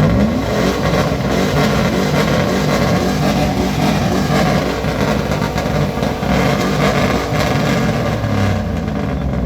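Car engine revved hard and held at high revs, a loud rough exhaust note after a quick rise in pitch.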